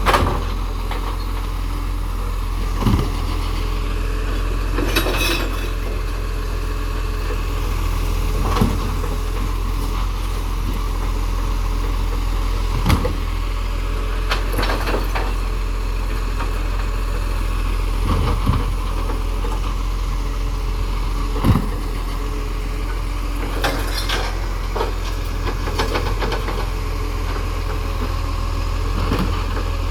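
Recycling truck's engine running steadily, with short knocks and clatters every few seconds.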